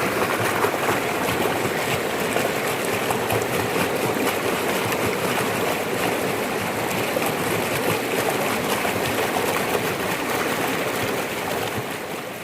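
Fast-flowing floodwater rushing: a steady, dense noise of moving water that begins to fade out near the end.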